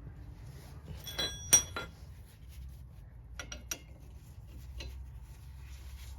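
Sharp metallic clinks and taps: a quick cluster about a second in, two more past halfway and a faint one after, each with a short ring, as small metal parts or tools are handled and knocked together. A steady low hum underneath.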